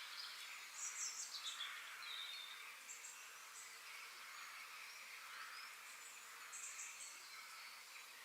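Faint outdoor nature ambience: small birds chirping in short high bursts about a second in, around three seconds and again near seven seconds, one call falling in pitch. A steady hiss of background ambience runs underneath.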